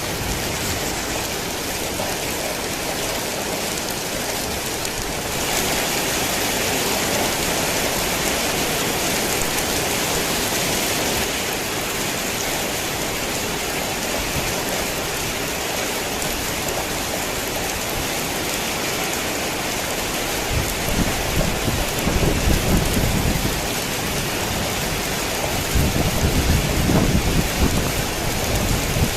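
Heavy rain falling steadily in a dense hiss, heavier for a few seconds early on. Two rolls of thunder rumble low under the rain in the last third.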